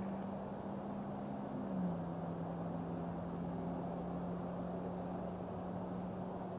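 A steady engine drone whose pitch drops slightly about two seconds in, under an even rushing noise.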